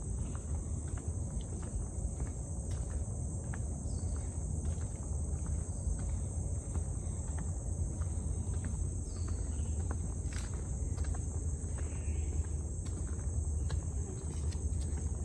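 Insects calling in a steady, unbroken high-pitched drone, over a low rumble, with scattered light clicks such as footsteps.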